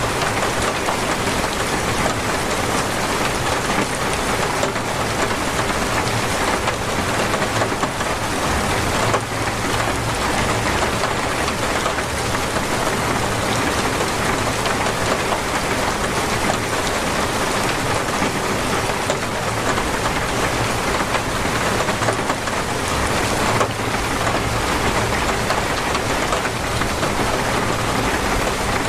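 Heavy, steady rain pouring down and drumming on surfaces, with scattered drops ticking.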